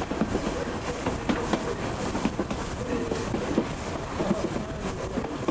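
Passenger coach of a steam-hauled excursion train running along the track, heard from an open coach window: a steady rumble of wheels on rails with irregular clicks.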